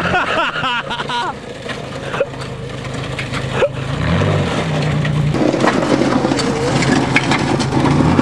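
The engine of a cut-in-half Pontiac car running, and revving up and down from about four seconds in. Voices shout briefly at the start, and there are a couple of sharp knocks.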